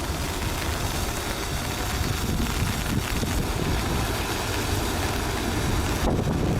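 Debris flow rushing down a torrent channel: a steady, dense roar with a heavy low rumble of mud and rocks on the move.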